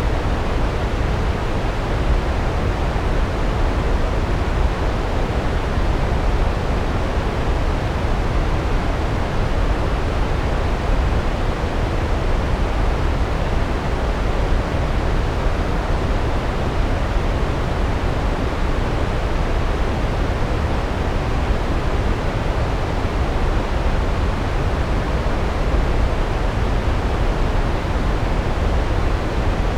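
Large waterfall: a steady, unbroken rush of falling water, heaviest in the low end, with no changes or separate events.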